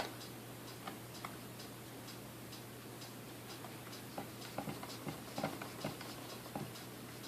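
Light, even ticking about three times a second over a steady low hum. About four to six seconds in come a cluster of small clicks and knocks as parts of a Sunbeam Mixmaster Model 12 stand mixer are handled and fitted during reassembly.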